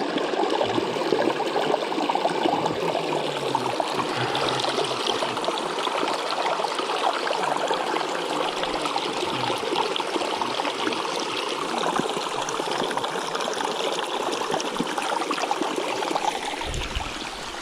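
Water flowing in a stream, a steady babbling and trickling.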